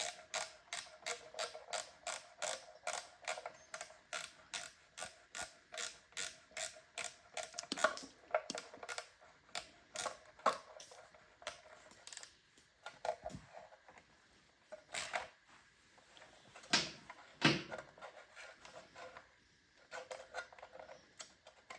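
Ratchet wrench turning a rusty, gritty bolt out of a small engine's cover, clicking steadily about three times a second, then in scattered clicks after about twelve seconds.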